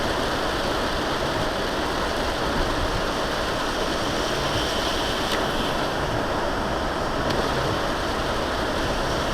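Steady rushing noise of a vehicle driving on a rain-soaked road, tyres hissing through standing water under an engine hum.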